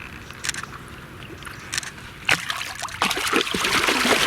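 Water sloshing and splashing as a big mirror carp is slipped back into the lake and kicks away, starting about three seconds in after a single knock.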